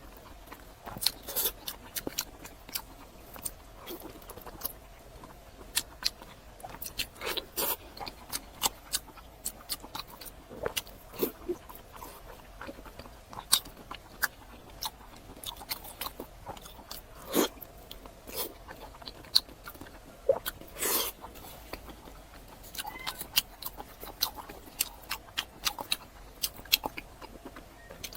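Close-miked mouth sounds of a person biting and chewing strips of boiled pork belly dipped in sauce: irregular sharp smacks and clicks.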